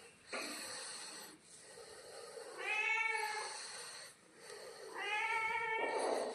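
Domestic cat meowing: two drawn-out meows about two seconds apart, with a short breathy, hiss-like noise shortly before the first.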